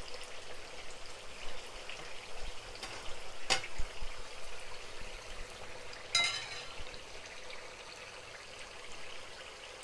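Potato and carrot sticks frying in hot oil in a pan, a steady sizzle and crackle, with a slotted spatula stirring through them. A sharp click about three and a half seconds in, and a short ringing clink about six seconds in.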